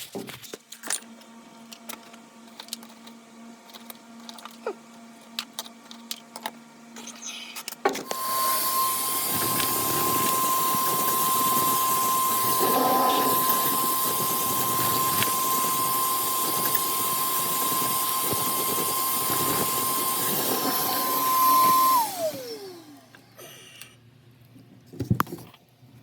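A few knocks and clicks, then a wet/dry shop vacuum switched on about eight seconds in, running loud and steady with a constant motor whine for about fourteen seconds, then switched off, its whine falling as the motor winds down. It is being used to clear debris out of a broken cast iron drain pipe.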